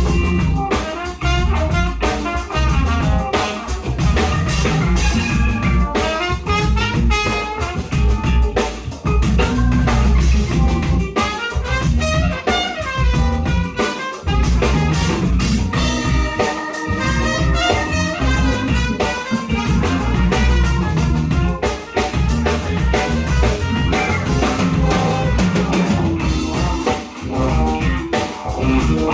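A live soul-jazz band of drum kit, electric bass, keyboards, guitar, trumpet and saxophone playing an instrumental groove. A busy drum kit and bass drive it, with melodic lines over the top.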